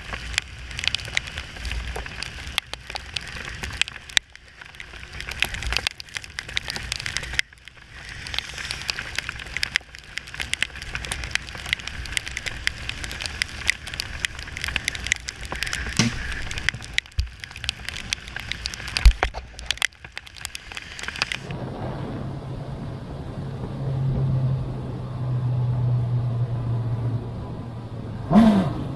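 Motorcycle riding audio: rough crackling noise full of clicks, broken by a few brief dropouts. About two-thirds of the way in it changes to a steadier, quieter low engine hum.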